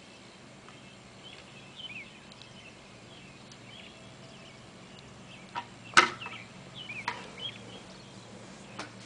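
Small birds chirping repeatedly, with a few sharp clicks or knocks, the loudest about six seconds in.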